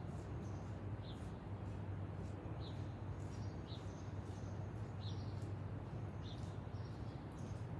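A bird chirping repeatedly, short high chirps about once a second, over a steady low hum.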